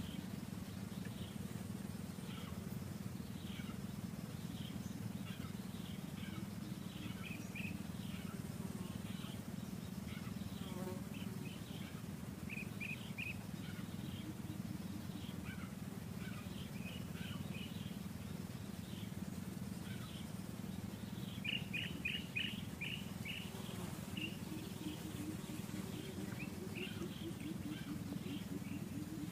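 Forest ambience: many short, high birds' chirps scattered throughout, with a quick cluster about two-thirds of the way in, over a steady low hum.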